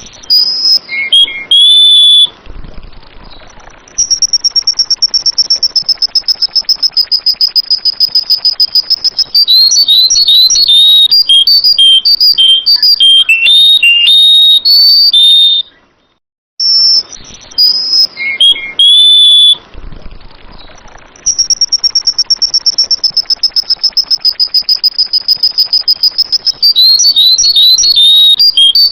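Sooty-headed bulbul (kutilang) singing loud, clear whistled notes, with a long steady high-pitched trill between bursts of quick varied phrases. The same sequence repeats about sixteen seconds in, as a looped recording.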